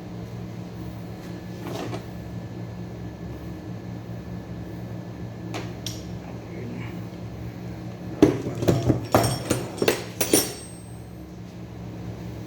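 A quick run of metallic clanks and knocks, about eight strikes over two seconds starting about eight seconds in, typical of metal tools or parts being handled during truck repair work. A steady low hum, like a running engine, sits underneath.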